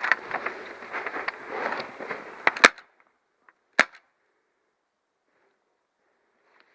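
Footsteps and gear rustling as a player moves, ending in a sharp crack, followed about a second later by a second single crack, typical of airsoft gun shots; then near quiet.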